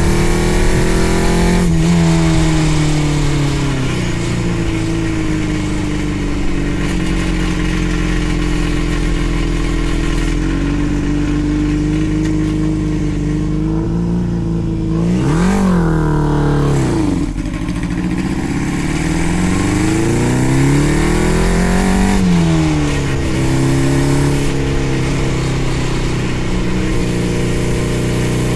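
600cc engine of a home-built go-kart running under way, its pitch rising and falling with the throttle. About fifteen seconds in it revs up sharply, drops away briefly, then climbs again a few seconds later.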